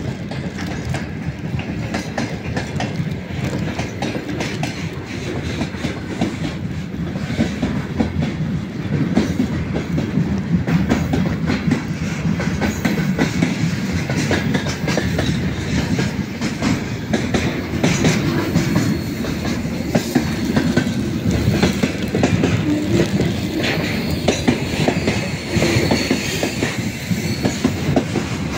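Freight train of container flatcars passing on the nearest track: a continuous rumble of the wagons with the clickety-clack of wheels over the rail joints.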